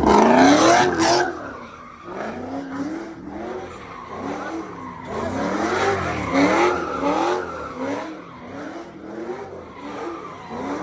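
A car's engine revving up and down over and over, about one to two revs a second, with tyres skidding and squealing. The loudest moment is in the first second.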